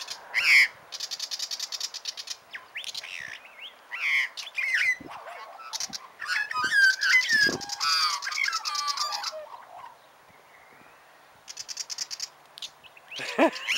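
Willie wagtail scolding magpies with rapid rattling chatter in short runs, about a second in and again near the end, mixed with Australian magpie calls: a louder stretch of gliding, warbling notes in the middle.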